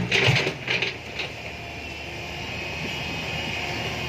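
Six-wheel dump truck running, with a few sharp clatters in the first second, then a steady engine and road noise.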